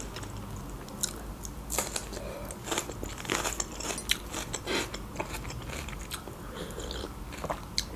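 Close-miked eating sounds: chewing with irregular crisp crunches, as of bites of raw red bell pepper.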